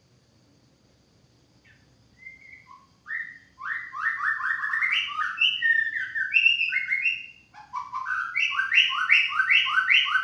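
White-rumped shama singing. It gives two phrases of fast repeated whistled notes starting about three seconds in, and the second phrase is a rapid run of paired notes.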